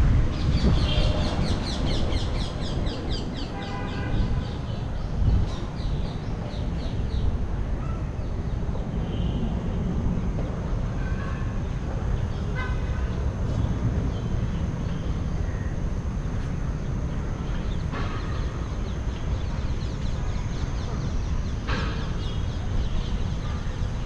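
Birds calling in the trees: quick runs of repeated chirps in the first few seconds, more repeated calls around the middle, and a few short sharp calls later, over a steady low rumble.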